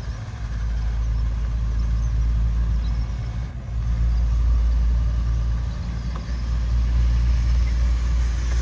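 Steady low engine drone, like a motor running at idle, starting suddenly with a brief dip about three and a half seconds in.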